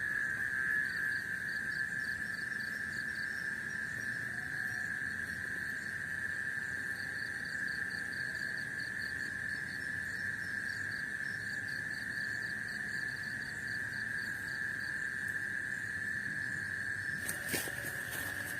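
Night chorus of forest insects and frogs: a steady high-pitched drone with a faster pulsing trill above it. A few sharp clicks or taps near the end.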